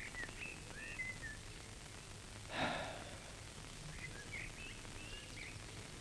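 Birds chirping in short, scattered calls, with one breathy sigh about two and a half seconds in.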